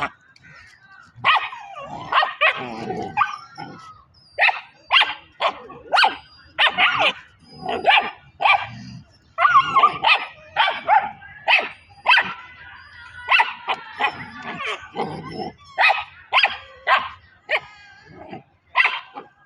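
Puppies barking and yipping in quick short bursts, about two a second, while playfighting.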